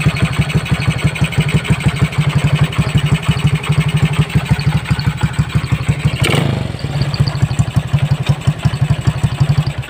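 Motorcycle engine idling through an aftermarket CJ Ipoh exhaust, a fast steady string of exhaust pulses. A short rev blip comes a little past halfway, then back to idle, and the sound cuts off suddenly at the very end.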